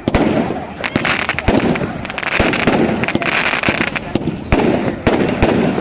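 Fireworks display: repeated sharp bangs and pops of shells bursting, with a stretch of hissing crackle in the middle.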